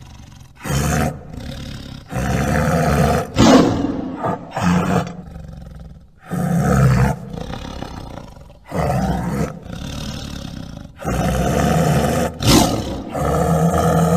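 Tiger roaring over and over, in loud calls of about a second each with short gaps between them.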